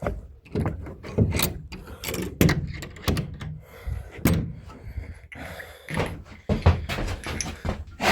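A string of irregular knocks and clunks, about two a second, as tools and metal parts are handled and set down.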